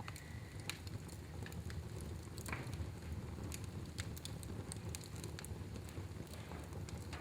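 Wood fire burning in a fireplace, crackling with irregular sharp pops over a low steady rumble; one louder pop comes about two and a half seconds in.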